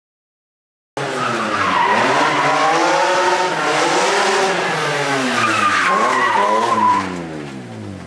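Aston Martin DB5's engine revving up and down over and over as the car is driven hard, with tyre squeal. It starts suddenly about a second in and fades for the last second.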